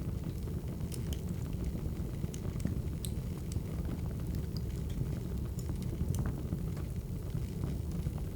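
Crackling wood fire: a steady low rumble with scattered small, sharp pops and snaps.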